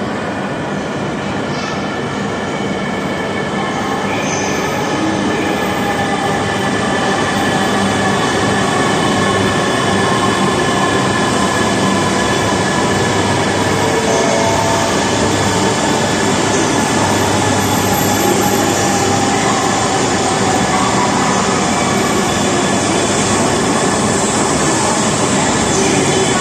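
Coupled E3 and E2 series Shinkansen trains pulling into the platform, a loud steady running noise with several whining tones that slowly fall in pitch as the train slows.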